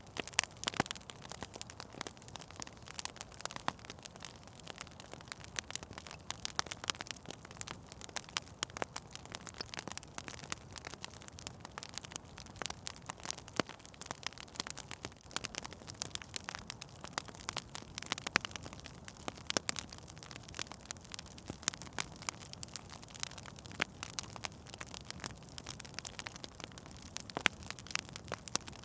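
Wood fire burning in a fireplace, crackling and popping irregularly with many small sharp snaps over a soft steady hiss.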